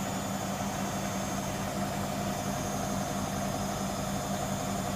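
Hoover Nextra HNWL7146 washer dryer running, a steady machine hum holding one pitch throughout.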